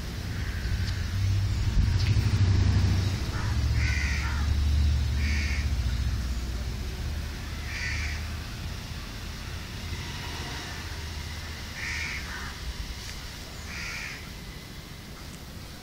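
A bird, crow-like, gives short harsh caws about every two to four seconds, some six calls in all, over a low rumble that is heavier in the first half and fades.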